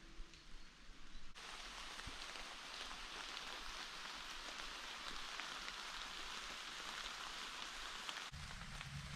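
Heavy rain falling as a dense, even hiss that starts abruptly about a second and a half in. Near the end it cuts to a quieter hiss with a low rumble underneath.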